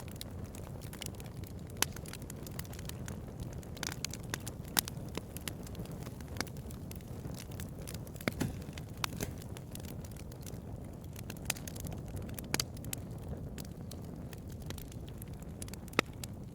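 Bonfire crackling: irregular sharp pops and snaps, a few noticeably louder, over a steady low rumble.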